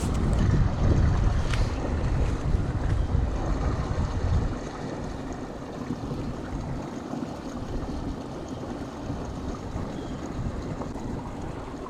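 Wind buffeting the microphone: a heavy low rumble for the first four seconds or so, then a lighter, steadier rush of wind.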